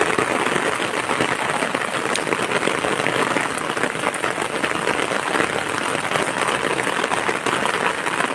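Heavy rain pelting down, a dense steady hiss made of countless fine ticks.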